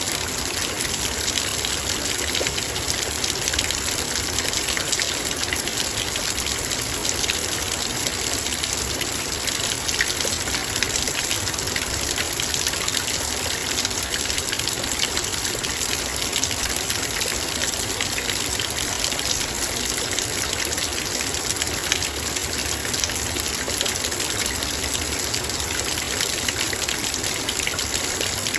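Heavy rain falling steadily, with a dense patter of raindrops striking a metal bowl.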